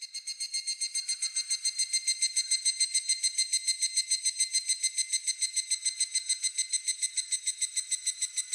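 Higurashi (evening cicada) calling: a rapid pulsing run of ringing high notes, about eight pulses a second, swelling in over the first second or so and then holding steady.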